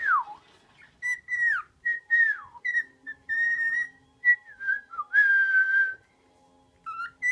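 Pet bird whistling: a run of short whistles, several sliding down in pitch, then one longer held whistle about five seconds in and a few short notes near the end.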